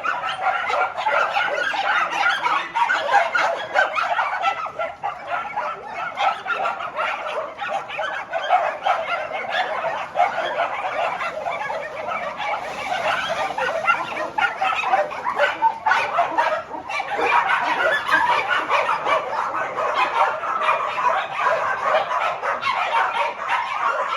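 A large pack of shelter dogs barking and yapping at once in a dense, unbroken chorus, two groups quarrelling at each other across a boundary wall.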